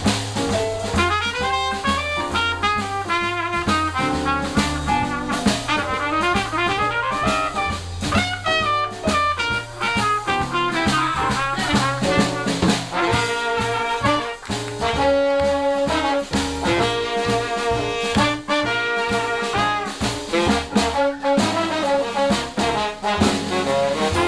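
Live jazz played by a small band: trombone, trumpet and saxophone over walking bass and drum kit, in a swing number.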